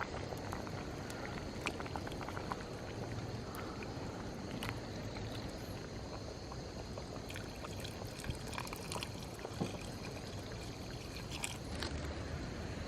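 Steady rushing of flowing river water, with scattered sharp crackles and pops from a wood campfire.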